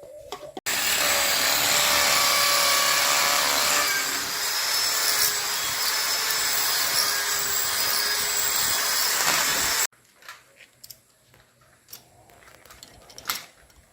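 Electric power drill running for about nine seconds with a steady whine that drops slightly in pitch partway through, then cuts off suddenly.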